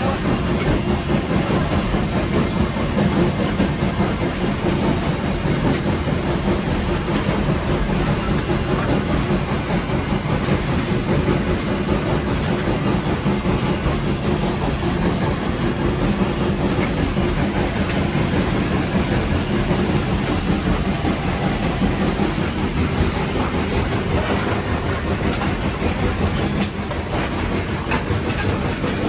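Nevada Northern No. 81, a Baldwin 2-8-0 steam locomotive, running, heard from inside its cab: a steady heavy din of the engine and wheels on the rails, with a few sharp clicks near the end.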